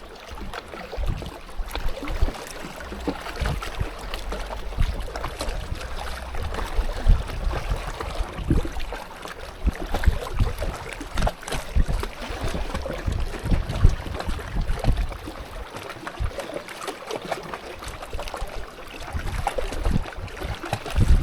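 Gusty wind buffeting the microphone in uneven rumbling surges, with water lapping and sloshing.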